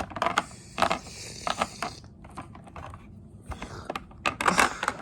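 Irregular small clicks and knocks of plastic toys being handled and moved about.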